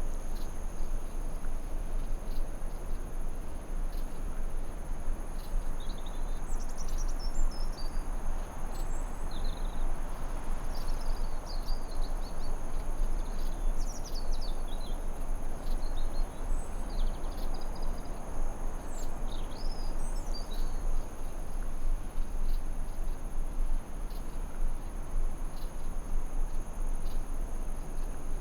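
Forest ambience: a steady hiss under a continuous high-pitched insect drone, with birds chirping in short, quick phrases from about six seconds in until about twenty seconds in.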